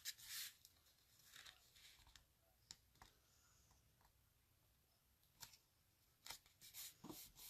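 Near silence, with a few faint, brief rustles and taps of paper card stock being handled, a little busier near the end.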